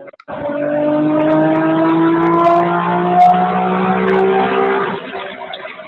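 Acura NSX's V6 engine pulling under hard acceleration, its pitch climbing steadily for about five seconds before falling away near the end. It sounds thin and cut off at the top, heard through a phone call.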